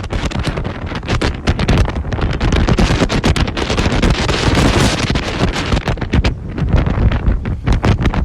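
Strong gusting wind buffeting the microphone, a loud rumble and hiss that swells and eases in gusts.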